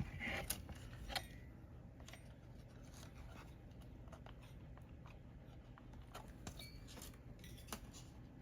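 Faint, scattered light clicks and taps of small tools being handled at a circuit board during desoldering work, over a low steady hum.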